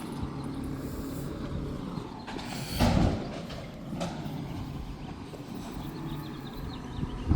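Garbage truck engine running with a steady low rumble, broken by one loud sudden burst about three seconds in and a couple of smaller knocks later.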